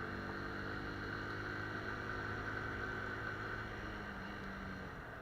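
Engine running steadily at a low, even hum with a faint whine above it, slowly fading away toward the end.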